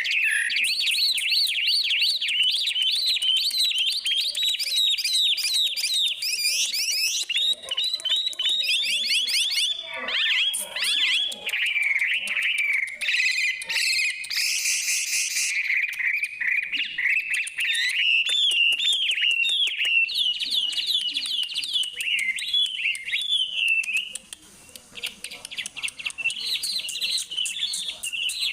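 A songbird singing on and on in fast, high chirps and trills with quick up-and-down sweeps, pausing briefly about three-quarters of the way through.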